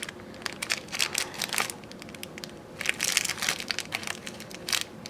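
Small plastic baggies of nail decal stickers crinkling as they are handled, in two spells of crackling, the second starting about three seconds in.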